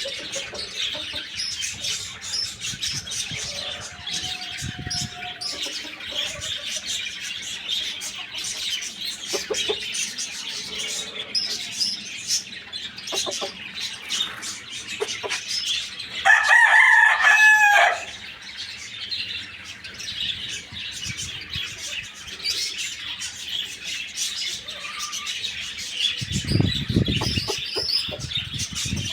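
Many small birds chirping continuously. About sixteen seconds in, a rooster crows once, loudly, for under two seconds.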